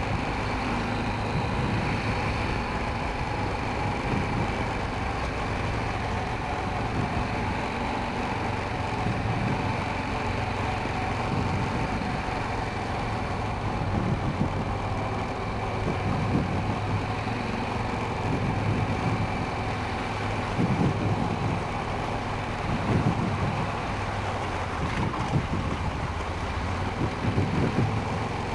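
Honda Rincon 650 ATV's single-cylinder engine running steadily under way, with irregular low rumbles coming and going through the second half.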